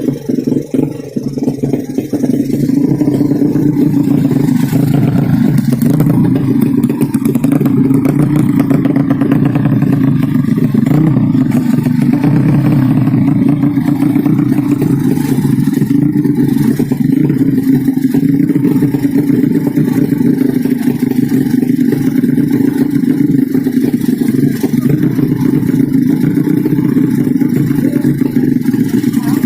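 Motorcycle engine running steadily and loudly, a dense low drone with little change in pitch.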